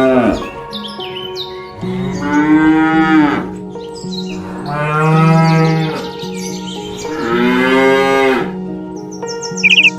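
Cattle mooing: three long, drawn-out moos of about a second and a half each, with the tail of another at the very start, over steady background tones. A short, high bird call comes near the end.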